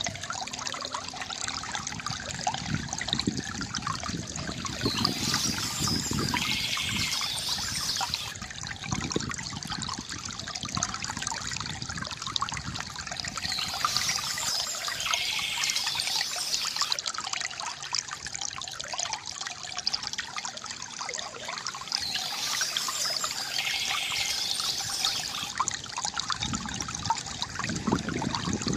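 A small stream trickling and splashing steadily, with brighter stretches that come back about every nine seconds.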